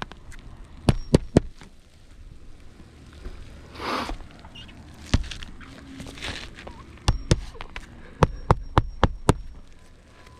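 Hammer striking nails into roof shingles in quick runs of sharp blows, with a brief scrape or rustle between runs.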